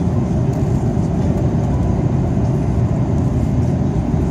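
Steady low cabin noise of an Airbus A330 airliner on approach: jet engine and airflow noise heard from inside the cabin, even and unbroken, with a faint steady hum on top.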